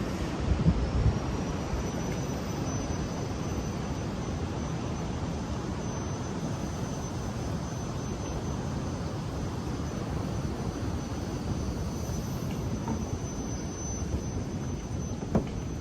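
Steady low rushing of ocean surf mixed with wind, with a couple of brief knocks about a second in and again near the end.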